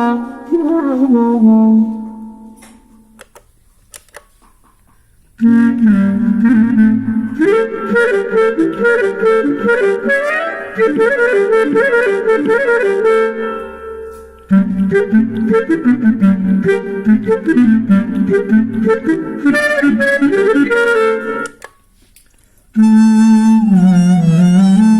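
Clarinet-like melody played through a Zoom G3n multi-effects pedal, in ornamented phrases. It breaks off into silence for a couple of seconds about 3 s in and again near the end, with a short pause midway.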